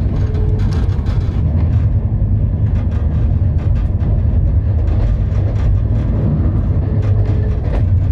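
Indian Railways passenger coach running at speed, heard from inside: a steady low rumble of wheels on the rails with irregular clicks and knocks over it.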